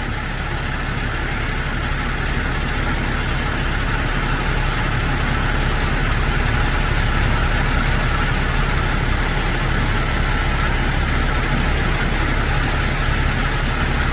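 Heavy truck engine idling steadily: a constant low rumble with a haze of noise over it.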